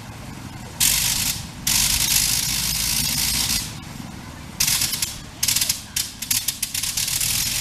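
Le Rhône rotary engine running up, its ignition cut in and out with a blip switch: loud stretches of running broken by sudden drops, turning into rapid stuttering blips over the last couple of seconds.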